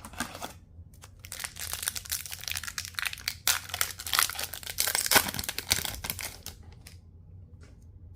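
Plastic trading-card pack wrapper being crinkled and torn open, a dense crackling that runs for about five seconds, then dies down near the end.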